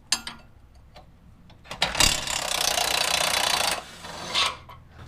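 Impact wrench with a 22 mm socket hammering on a lower control arm bolt for a little under two seconds, about two seconds in, breaking it loose. A click comes just before, as the socket goes on.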